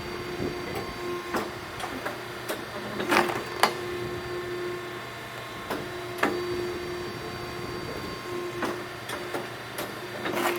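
Automatic firewood splitter running: a low machine whine that cuts in and out every second or two, with irregular clacks and knocks, the loudest about three and six seconds in.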